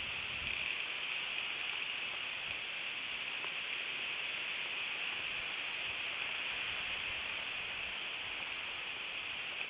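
Steady, even hiss, strongest in the upper range, with nothing else standing out.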